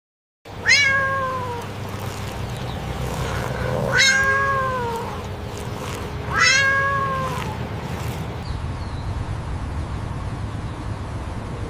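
A cat meowing three times, each meow about a second long and sliding up then down in pitch, over steady low background noise.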